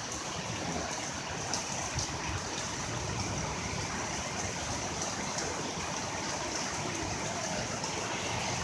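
Heavy rain pouring down steadily, with a few faint sharp ticks of drops striking something nearby.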